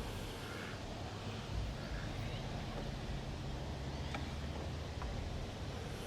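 Steady low rumble with two faint ticks a little past the middle.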